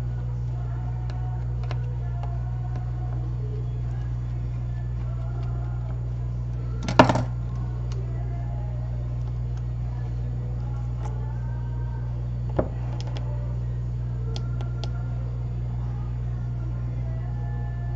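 Steady low hum of bench equipment under repair work, with one sharp click about seven seconds in and a smaller one about five seconds later: small tools handled while screws are taken out of an opened iPad.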